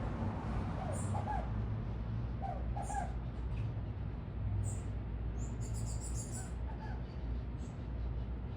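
Small birds chirping around a feeder: short, high chirps every second or so, with a quick run of chirps about six seconds in. Under them is a steady low city rumble, and two pairs of lower, short calls come in the first three seconds.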